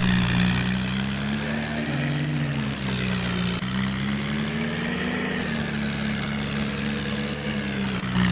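Swaraj tractor engine running with a steady drone, its pitch rising and falling gently twice.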